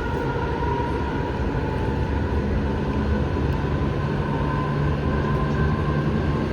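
Inside a VTA light rail car running between stations: a steady rumble of wheels on track with a faint whine from the drive. A lower hum comes in about halfway through.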